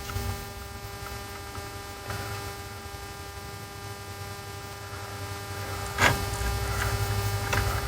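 Steady electrical hum with a faint whine made of several held tones over a low rumble, and a light click about six seconds in and another shortly before the end.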